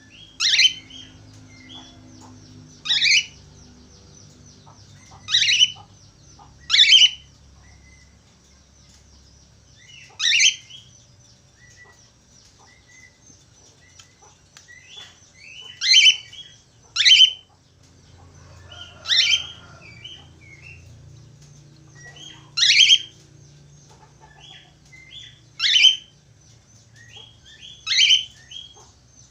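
Budgerigar calls: about eleven loud, sharp calls that sweep down in pitch, spaced irregularly one to four seconds apart, with softer short chirps between them.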